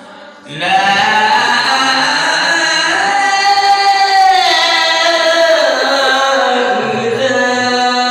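A long, melodious voiced call held on one pitch for about four seconds, then sliding down and held again on a lower note.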